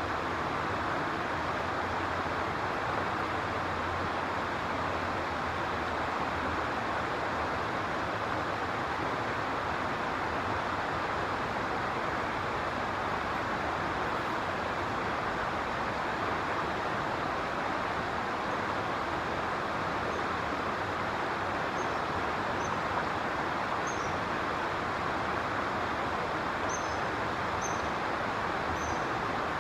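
Steady, even rushing background noise, with a few faint, short, high chirps over it in the last several seconds.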